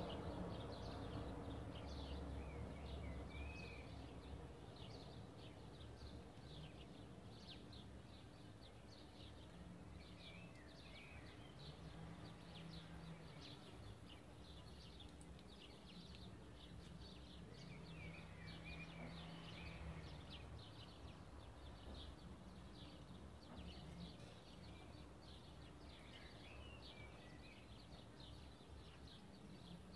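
Faint birds chirping, with many short high chirps throughout and a short warbling call repeated about every eight seconds, over a low steady background hum.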